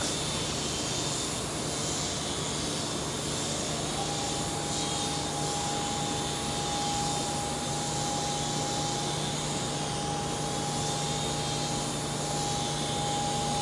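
Small toy RC helicopter (XB Raptor Copter, two-channel) hovering: its tiny electric motors and rotors give a steady whirring hum, and a steady higher tone joins about four seconds in.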